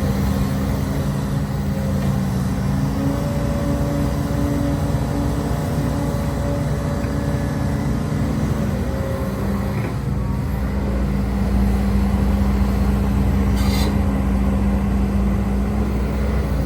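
Heavy diesel engine of a HIDROMEK HMK230LC excavator running steadily while working. Its pitch shifts about halfway through and it grows a little louder, with a short hiss late on.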